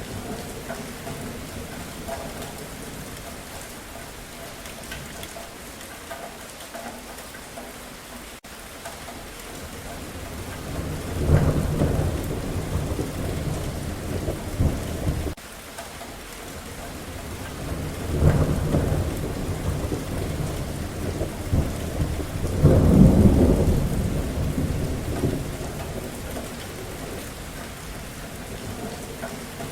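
Steady rain falling, with thunder rumbling three times through the middle and latter part; the first rumble cuts off abruptly.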